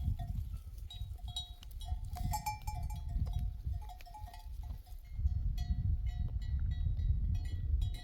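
Many bells on a grazing flock of sheep, clanking irregularly at different pitches, over a low rumble that gets heavier about five seconds in.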